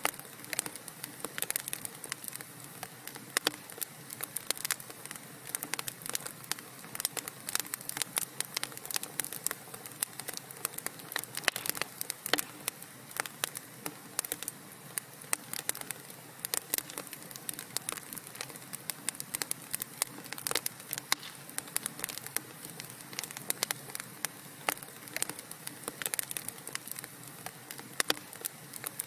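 Wood fire crackling in a fireplace: dense, irregular sharp pops and snaps over a steady low hiss of burning.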